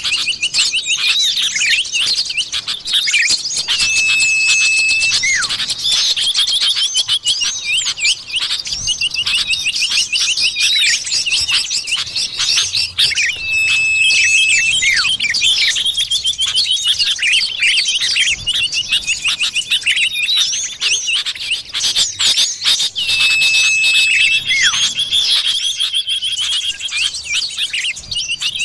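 Common ioras (cipoh) calling as a bird-lure track: dense, rapid chattering chirps with a long steady whistle that ends in a sharply falling note, recurring about every nine seconds as the recording loops.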